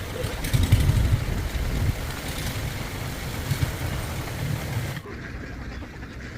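A truck's engine running with a low, uneven rumble; it cuts off suddenly about five seconds in, leaving a quieter background.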